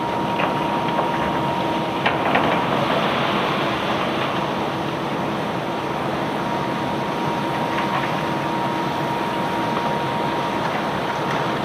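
Unloading machinery running steadily with a constant whine, with a few sharp clanks and a brief surge about two seconds in.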